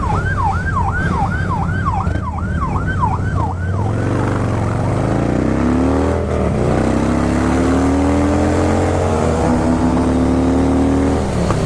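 Police-style siren yelping, sweeping rapidly up and down about three times a second, over a motorcycle engine's steady low rumble. The siren stops about four seconds in, and an engine then rises in pitch in several steps as it accelerates through the gears.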